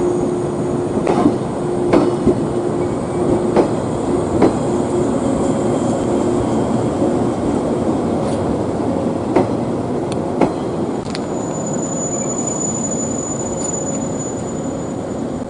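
A train running on rails: a steady running noise with sharp clicks from the rail joints at irregular intervals, and a thin high whine that comes in about two-thirds of the way through.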